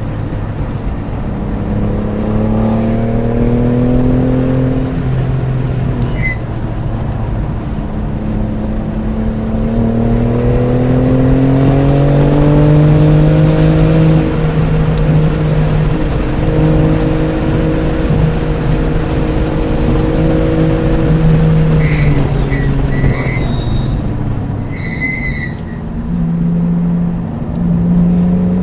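BMW F80 M3 Competition's twin-turbo inline-six under hard track driving: the engine note climbs twice as it pulls, holds steady for several seconds, then drops away as the driver lifts. A few short high squeals come near the end, and the engine note starts rising again just before it closes.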